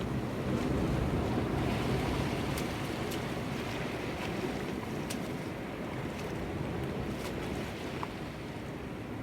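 Sea waves washing against rocks, with wind on the microphone. A few sharp clicks are heard over the steady wash.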